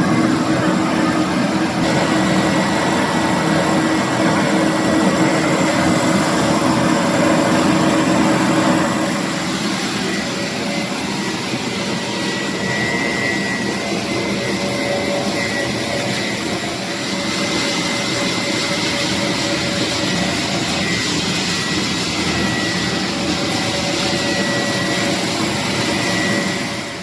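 Pet food extrusion line machinery running steadily, a loud mechanical noise with a thin high whine; the sound gets a little quieter and changes about nine seconds in.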